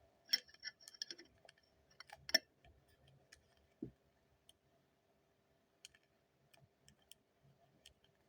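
Faint clicks and taps of paper and sticky tape being handled and pressed down by hand, most of them in the first couple of seconds, with a sharper tap and a duller knock, then a few scattered ticks.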